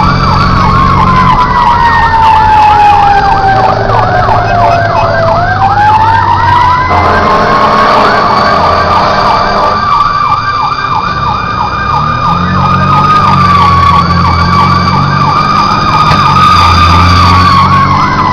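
Fire engine sirens sounding while responding. A fast, repeating warbling yelp plays over a slower wail that slides down in pitch and then climbs back up, with the truck's engine running underneath.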